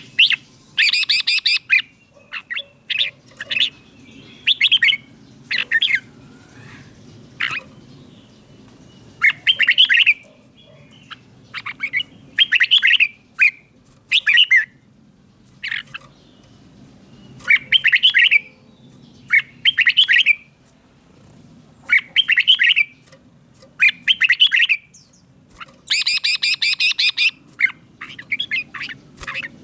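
Red-whiskered bulbul singing: short, loud, warbled phrases repeated every second or two with brief pauses between them, over a faint low hum.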